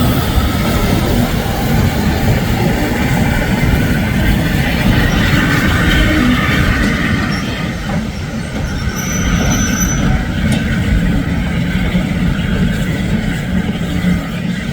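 Steam train running on the line: a loud, steady rush of locomotive and rolling stock on the rails, with a faint thin squeal from the wheels about two-thirds of the way through.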